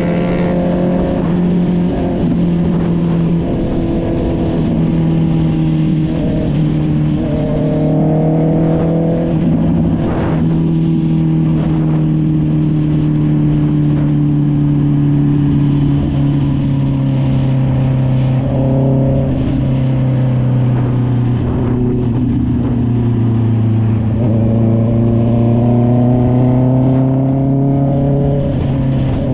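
Honda CB650R's inline-four engine with an SC Project exhaust, under way. The engine pitch shifts in a few steps in the first several seconds, then falls slowly for a long stretch, and rises again over the last few seconds.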